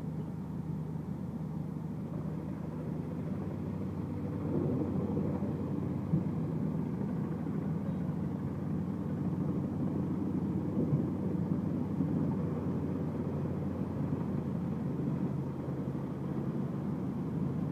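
Large industrial wood chipper running under load, its heavy engine droning steadily. About four and a half seconds in, a rougher grinding noise rises over the drone as wood is fed in and chipped.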